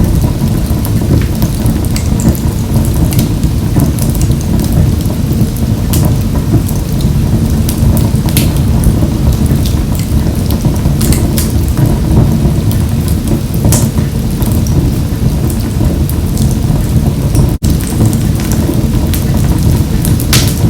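Wood fire burning in a wood-burning stove: a steady low rumble of flames with scattered sharp crackles and pops, broken by a split-second gap near the end.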